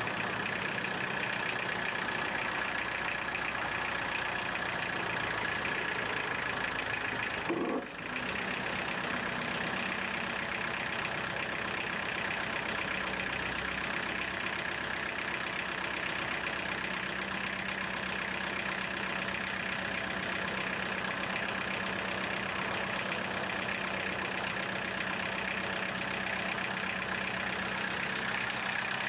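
An engine idling steadily, with a short break about eight seconds in.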